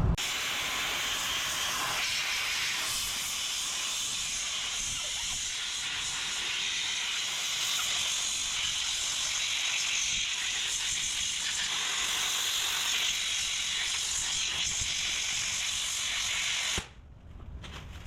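Siphon-feed sandblast gun running on compressed air, a steady hiss of air and blasting media that cuts off suddenly near the end.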